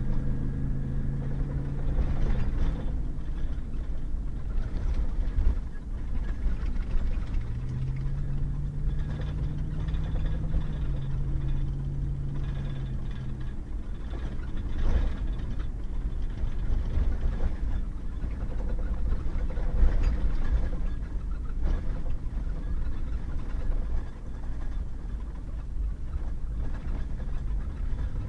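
Pickup truck driving on a wet gravel road: a steady low rumble of tyres and running gear, with the engine note stepping down early, rising again about eight seconds in and dropping away near the middle. A few sharp knocks come from stones or bumps along the way.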